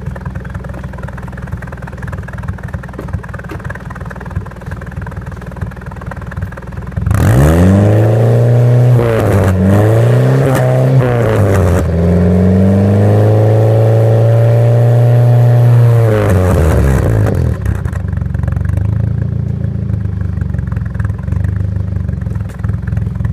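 Exhaust of a 2000 Chevrolet Cavalier Z24's 2.4-litre twin-cam four-cylinder, through a modified exhaust: idling, then revved up and down twice about seven seconds in, held at higher revs for several seconds, and dropping back to idle.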